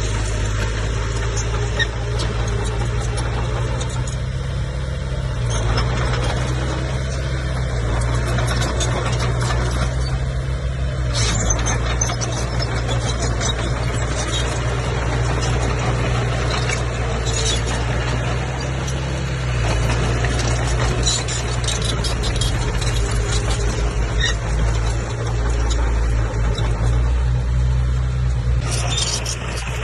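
Komatsu crawler bulldozer's diesel engine running steadily under load, its pitch shifting up and down a few times, with occasional sharp metallic clanks from the machine working.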